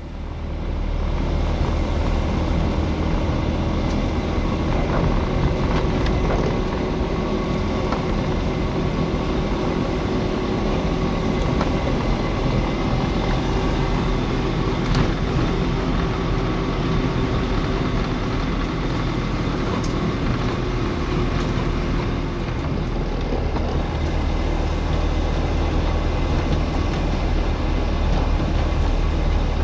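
A car being driven: steady engine and road noise that swells up within the first second from a quieter stretch, then holds even.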